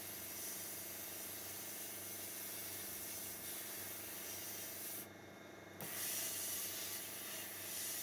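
Pressure washer, converted to run on a Milwaukee M18 battery, running and spraying: a steady hiss of spray over a low steady hum. The spray drops out for about a second around five seconds in, then resumes.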